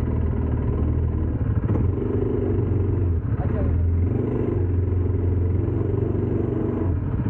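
ATV engine running steadily at low revs, with people talking over it.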